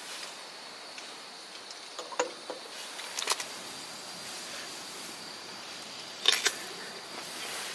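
A few short, light clicks and knocks, the loudest about six seconds in, over a steady outdoor hiss with a faint high steady tone.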